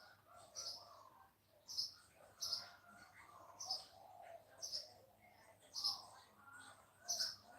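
Birds calling: a short, high call repeats about once a second, about seven times, over lower, busy chattering calls.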